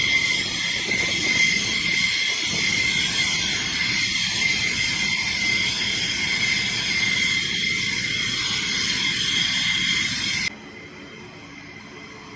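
F-15E Strike Eagle's jet engines running loud, a steady high whine over a rough rumble. About ten seconds in it cuts off abruptly to a quieter engine noise.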